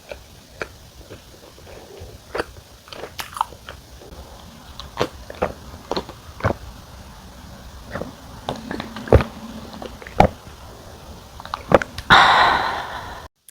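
Close-up chewing and biting of wood-fired pizza crust, with scattered crisp crunches. Near the end a louder burst of noise lasts about a second and cuts off suddenly.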